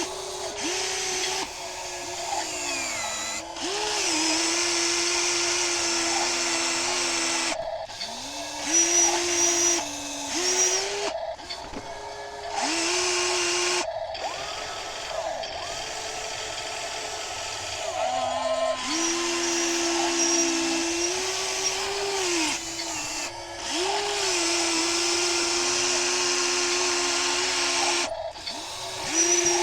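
Small electric motors of remote-control toy construction trucks whining as they drive and work. The motors speed up and slow down, and cut out briefly every few seconds.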